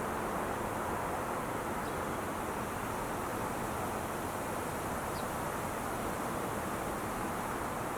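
Steady wash of traffic noise from the Interstate 5 freeway, tyres and engines blended into an even hiss with no single vehicle standing out.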